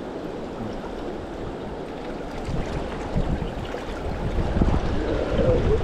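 River current rushing, with wind buffeting the microphone; the low rumble grows louder in the last couple of seconds.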